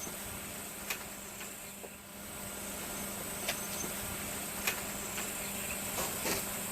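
Steady high-pitched background hiss over a low steady hum, with a few light clicks scattered through; no cat calls.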